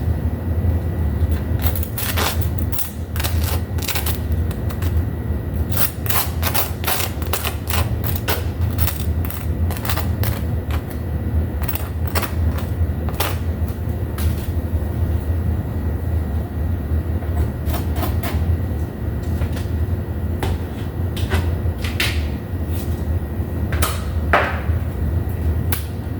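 Kitchen clatter: utensils and dishes clicking and knocking in irregular clusters over a steady low hum.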